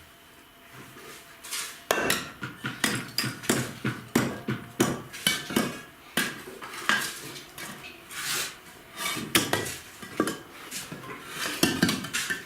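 Irregular run of hard clinks and knocks, several a second, starting about two seconds in.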